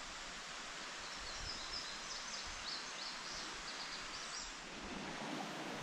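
Steady, quiet outdoor hiss of woodland ambience, with a bird giving a run of faint, short high chirps through the middle.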